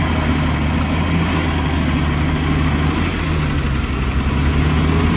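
Heavy earthmoving machine's diesel engine running steadily at a low, even pitch, with a slight dip in level about three seconds in.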